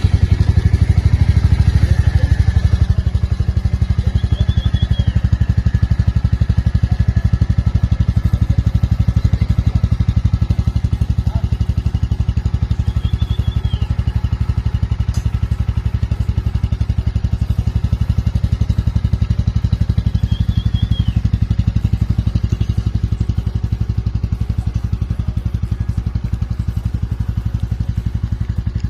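Royal Enfield Meteor 350's single-cylinder engine idling just after a cold start, with a steady, even exhaust thump. It runs a little higher for the first two or three seconds, then settles.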